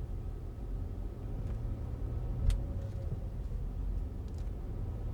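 Car driving slowly, a steady low rumble of engine and tyres, with one sharp knock about two and a half seconds in.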